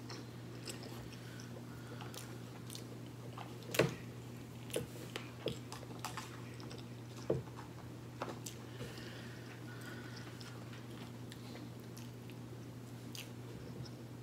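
Close-up chewing and biting of someone eating a pork chop and rice, with scattered soft mouth and utensil clicks, the sharpest about four seconds in, over a low steady hum.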